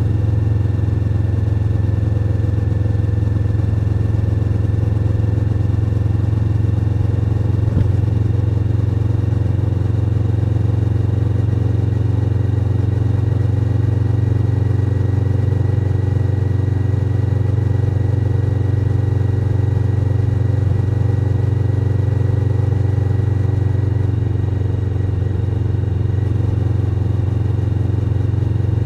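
Suzuki SV1000N's 90-degree V-twin engine running under way with a steady, unchanging note.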